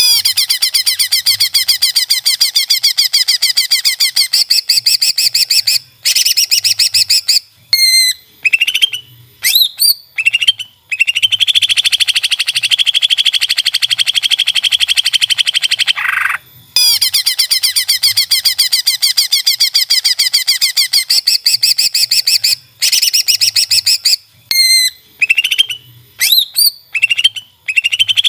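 Greater green leafbird (cucak ijo) singing: long, rapid, buzzing trills lasting several seconds, broken by quick bursts of short rising whistled chirps. The same sequence comes round again about halfway through.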